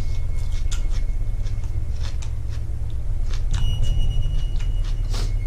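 Close-up chewing of a mouthful of raw onion: irregular crisp crunches over a steady low rumble.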